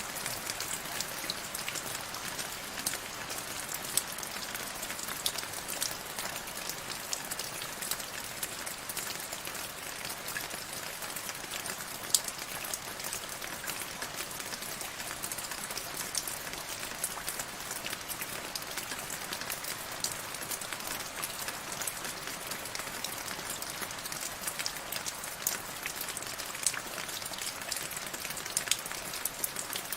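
Steady rain falling, a dense hiss with many sharp ticks of individual drops striking a surface.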